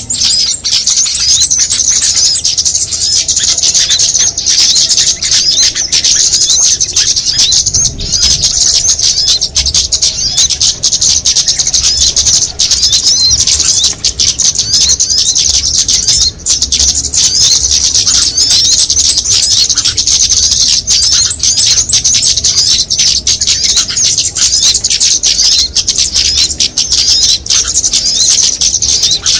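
Small-bird lure recording: many small songbirds chattering at once in a loud, unbroken mass of rapid high chirps and twitters, mixed to draw small birds in.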